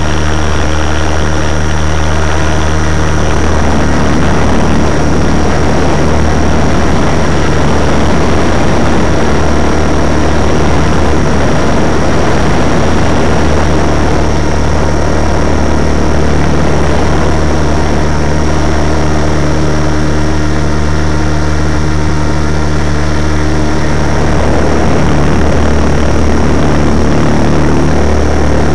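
Radio-controlled helicopter in flight, heard from a camera mounted on its own airframe: its rotors and motor run as a loud, steady drone with a low hum and a thin high whine held throughout.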